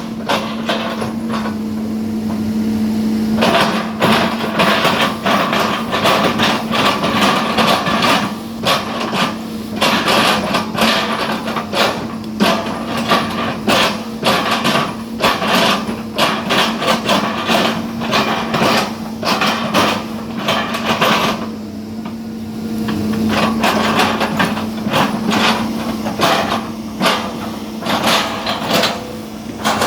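Excavator engine running steadily while its bucket chops up oil palm trunks: dense, irregular knocks and cracks of wood. The knocking starts about three seconds in and pauses briefly a little past two-thirds through.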